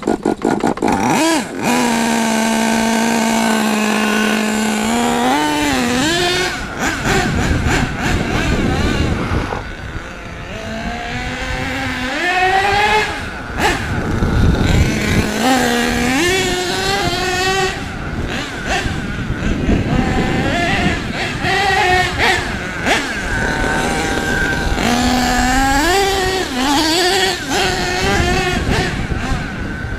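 Small nitro engine of an HPI Savage SS radio-controlled monster truck running hard. Its pitch holds steady and high for about three seconds, then rises and falls again and again as the throttle is opened and closed.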